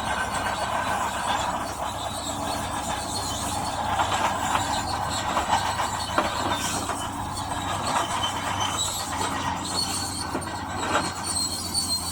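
Crawler bulldozer working: a steady diesel engine hum under the squeak and clatter of its steel tracks, with scattered knocks throughout.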